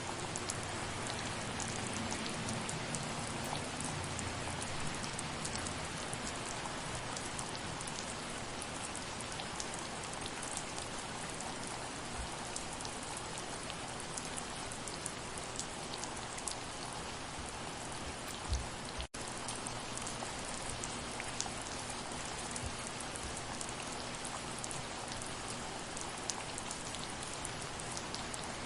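Steady soft rain: an even hiss of falling rain with many small drop ticks scattered through it. About two-thirds of the way through there is a brief low thump and a split-second dropout in the sound.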